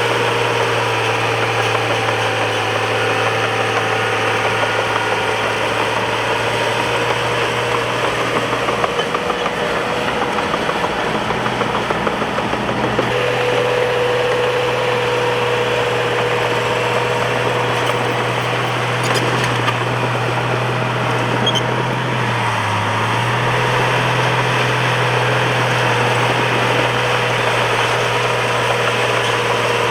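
Bulldozer's diesel engine running steadily, with a brief dip in engine pitch about three-quarters of the way through.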